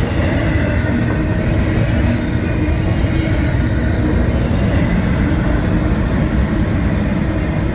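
Train passing close by: a loud, steady rumble of wheels on rail and locomotive engine, even throughout.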